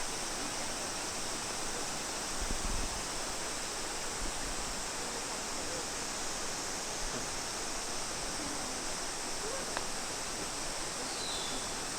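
Steady rush of flowing water, an even hiss-like roar with no breaks.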